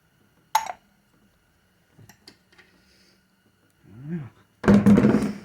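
A single sharp metallic clink about half a second in, a few faint clicks, then a loud, rough voice-like sound near the end.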